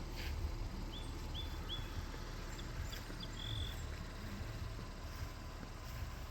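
Outdoor ambience with a small bird calling: three quick chirps about a second in, then a few brief notes and one longer held note, over a steady low rumble.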